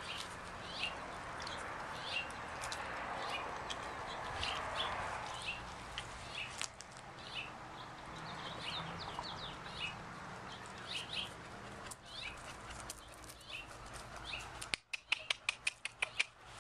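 Small birds chirping now and then over a steady background hum. Near the end a dog pants quickly in the heat, about four or five breaths a second.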